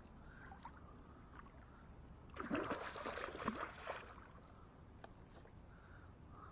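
Water splashing and sloshing beside a kayak for about a second and a half midway, a hooked fish thrashing at the surface.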